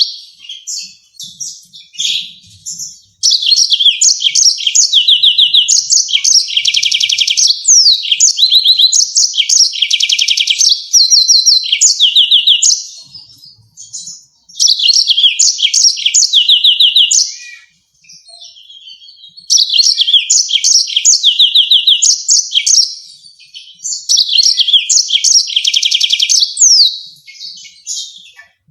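Yellow-fronted canary singing: long, loud bursts of rapid trills and sweeping notes, with short pauses between the bursts.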